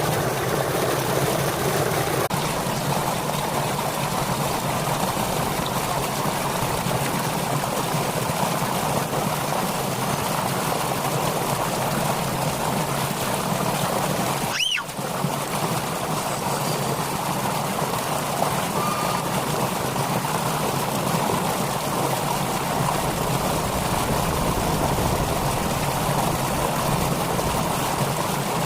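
Steady rush of flowing water, like a stream, with a brief dip about halfway through.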